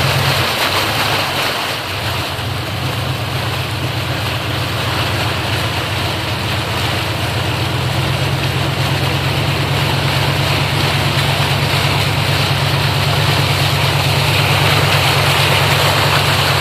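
A vehicle engine running steadily, with the continuous wash of floodwater around the vehicle. The engine hum dips briefly about a second in, then holds steady.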